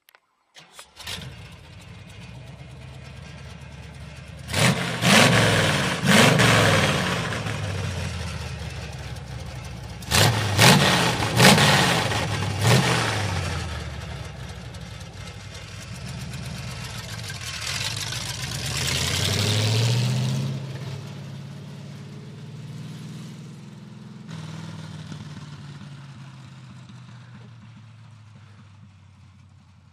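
1967 Chevrolet truck's 283 small-block V8 running on open, uncapped headers with no mufflers. It starts about a second in and idles, is blipped twice and then three times in quick revs, gets one longer rev, and settles back to idle.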